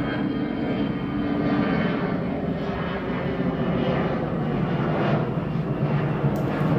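Airplane engines running as a plane passes, a steady low rumble.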